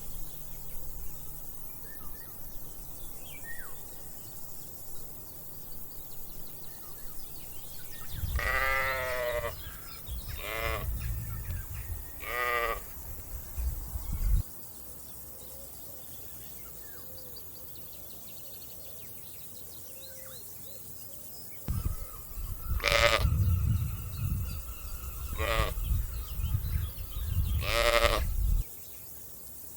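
Sheep bleating: about six wavering calls in two bunches, the first near a third of the way in and the second near the end. A low rumble runs under each bunch and cuts off abruptly.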